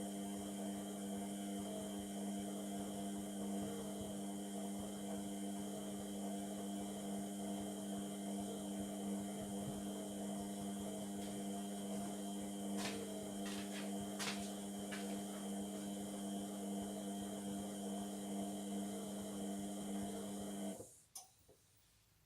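Indesit MTWC71252WUK washing machine humming steadily mid-cycle, with a few light clicks about halfway; the hum cuts off suddenly near the end.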